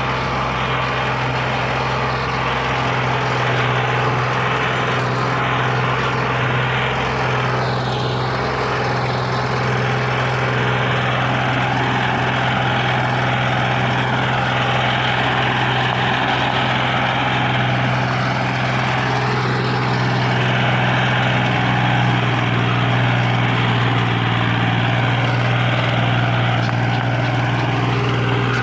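Tractor diesel engine running steadily under load, a constant low hum, pulling a heavy trolley.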